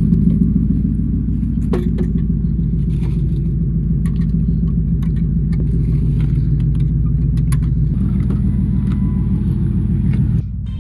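Pickup truck engine running steadily, heard from inside the cab, with small clicks and rattles now and then; it stops suddenly near the end.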